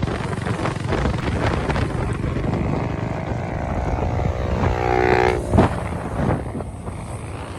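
Motorcycle on the move, with steady road and wind noise; from about four seconds in a pitched tone with several even overtones sounds for roughly a second and a half.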